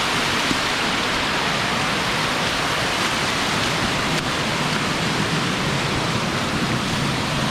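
Steady rush of a waterfall, unbroken throughout.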